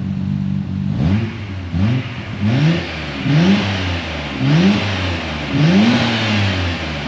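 Midori Seibi-built Nissan Skyline R34 GT-R's RB26 twin-turbo straight-six idling, then blipped about six times. Each rev rises sharply and drops back toward idle.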